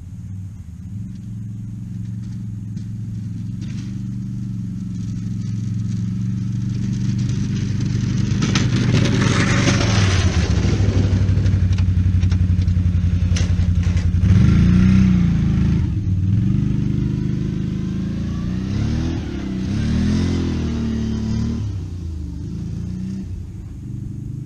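Engine running steadily and growing louder, then revved up and down several times in the second half.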